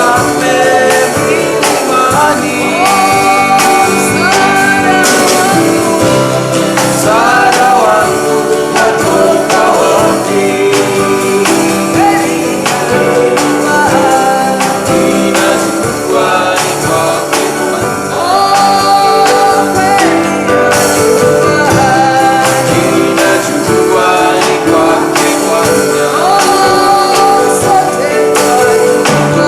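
Live gospel worship song: voices singing together over guitar and band, with light percussion.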